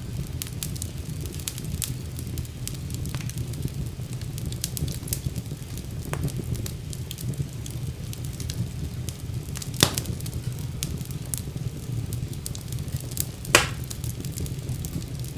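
Wood fire burning in a fireplace: a steady low rumble of flames with scattered crackles and two louder pops, about ten seconds in and near the end.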